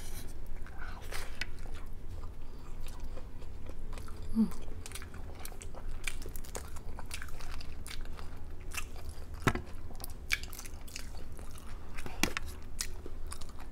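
Close-up eating sounds of shrimp and crab being bitten and chewed: wet chewing with many short, sharp crunches and clicks, and a brief voiced "mm" about four seconds in.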